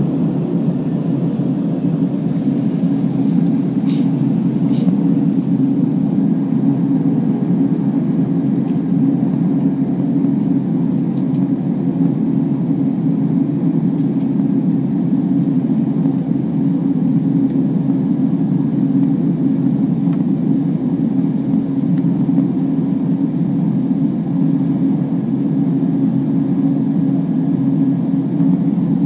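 Beechcraft 1900C twin-turboprop airliner, its two Pratt & Whitney PT6A engines and propellers running in a steady, even drone.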